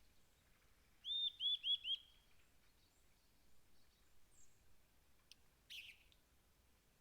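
Wild birds singing: one gives a run of four quick, clear repeated notes about a second in, followed by fainter calls and a short sharp call near the end.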